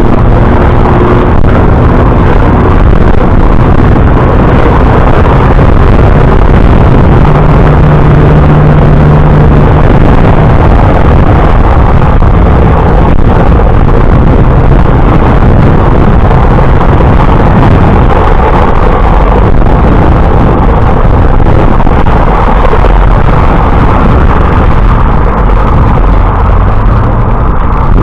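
Wind buffeting a moving bicycle rider's camera microphone: a loud, steady rumble with no let-up, and a low hum standing out for a few seconds about a quarter of the way in.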